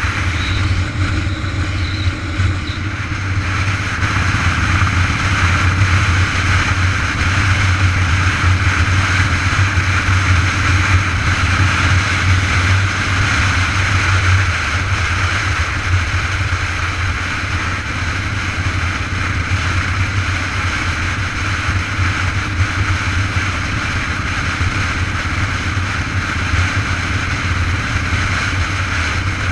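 Steady wind and road noise picked up by a camera riding along on a moving bicycle: a continuous low rumble with a hiss over it.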